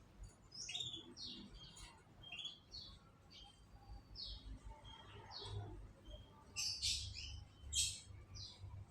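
Canaries chirping: many short, high calls scattered throughout, with the loudest cluster near the end.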